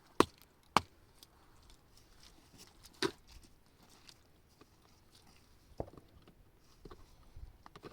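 Sharp knocks and cracks as something is struck to break it: two close together near the start, one about three seconds in and one near six seconds, with fainter ticks and rustling between.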